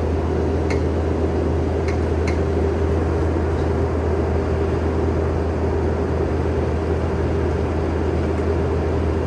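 Skid steer's diesel engine running steadily, a constant low hum, with three light clicks about one to two seconds in.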